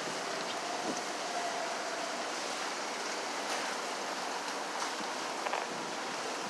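Steady outdoor street ambience: an even hiss of wind and distant city traffic, with a faint tone rising briefly about a second in.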